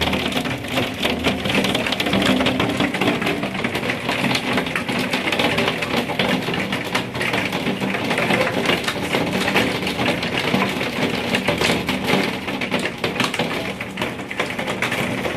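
Hailstones pelting hard surfaces: a dense, continuous clatter of countless small impacts, holding steady throughout.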